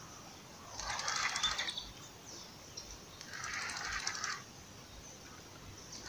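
A bird calling twice outdoors, each call a rapid, raspy burst lasting about a second, the two about two seconds apart.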